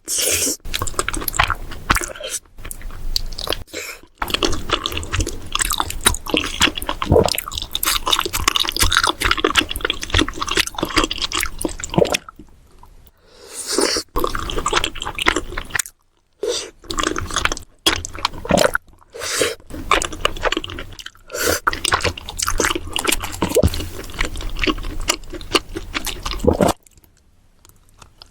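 Close-miked chewing and crunching of fried Korean corn dogs with crisp batter coating, a dense run of irregular crackles and wet chewing, broken by a few short pauses.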